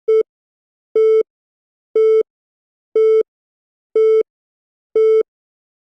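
Six short electronic beeps, one a second, all on the same mid-pitched tone, with silence between them, like a countdown timer.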